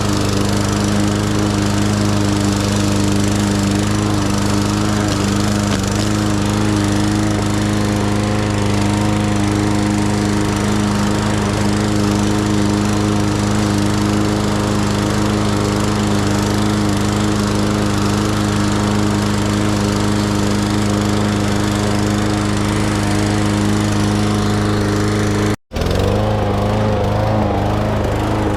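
Lawn mower engine running steadily at a constant speed. Near the end the sound cuts out completely for a split second, then resumes with a slight waver in pitch.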